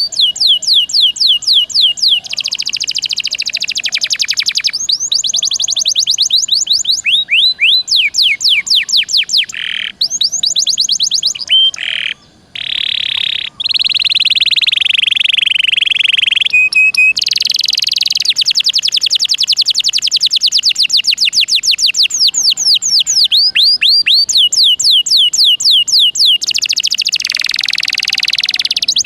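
Domestic canary singing a long, nearly unbroken song: fast trills of repeated sweeping notes alternating with dense rolling passages, broken by two short pauses around the middle.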